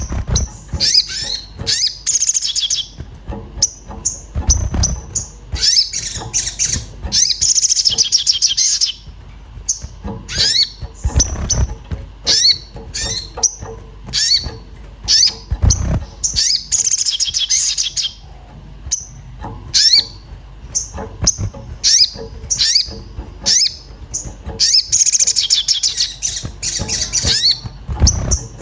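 A sogon songbird chirping in an agitated state ('cuit cuit'). It gives rapid high chirps, bunched into several dense trilling bursts, with single sharp notes between them.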